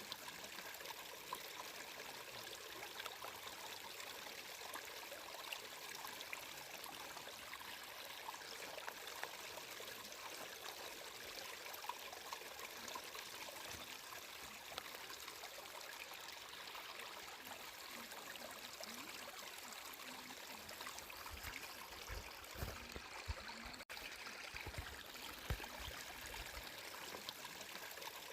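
Flowing water, a stream running steadily with a dense patter of small trickles and splashes. A few soft low bumps come near the end.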